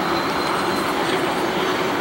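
Diesel locomotives hauling a continuous welded rail train roll slowly past, engines running with a steady drone and a low hum.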